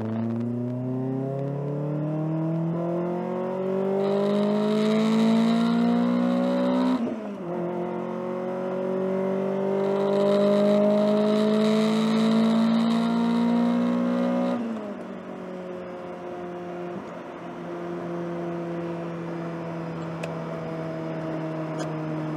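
Honda H22A4 2.2-litre DOHC VTEC four-cylinder, running a short-ram intake, a tri-Y header and 2-1/2-inch exhaust with resonator and muffler, pulling hard at full throttle, heard from inside the cabin. Its pitch climbs steadily, drops at an upshift about seven seconds in, climbs again to near the 7,000 rpm redline, then drops at a second upshift about halfway through and holds a steady cruising note.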